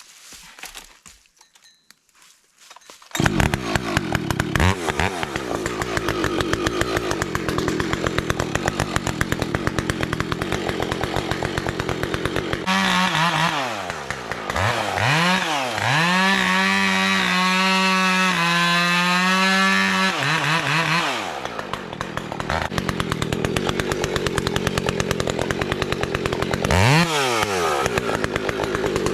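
Two-stroke chainsaw starting up about three seconds in and idling. It then runs at full throttle for about eight seconds while cutting into a standing dead poplar, drops back to idle, and is revved briefly once more near the end.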